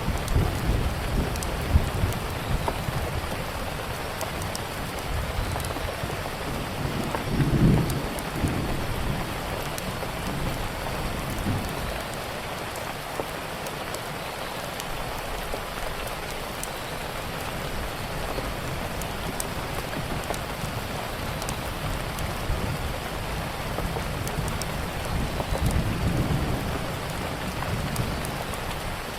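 Steady rain with low rumbles of thunder, which swell about seven seconds in and again near the end. Scattered small crackles come from a wood fire.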